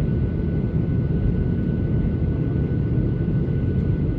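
Boeing 737-800 cabin noise in flight: a steady low rumble of airflow and its CFM56-7B engines, with a faint steady high whine.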